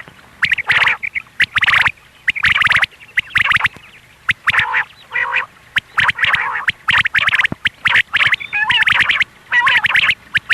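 Female quail calling, short calls repeated several times a second in irregular clusters. It is a call of the kind played to lure male quail in hunting.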